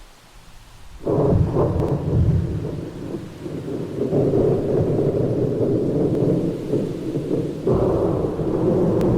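Thunder: about a second in a sudden clap breaks into a long, low rolling rumble, and a second clap comes near the end and rolls on.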